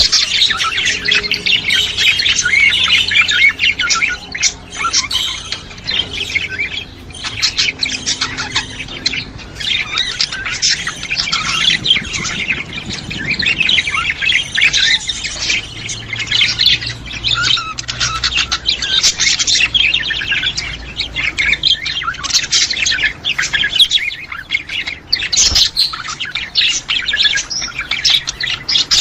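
Budgerigars chattering without a break: fast warbles and chirps with squawks mixed in.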